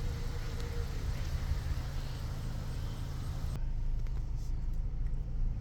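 Steady low rumble of a car's engine and running gear heard from inside the car. The higher hiss drops away suddenly about three and a half seconds in.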